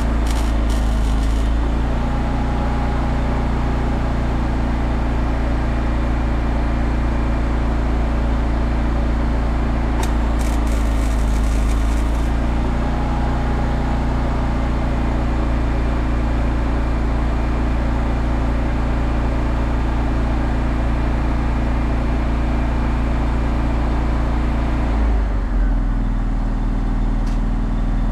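Engine-driven welding machine running steadily under load while arc welding goes on, with a steady crackling hiss over the engine. About 25 seconds in, the hiss thins and the engine note drops to a lower idle, as when the arc stops and the machine idles down.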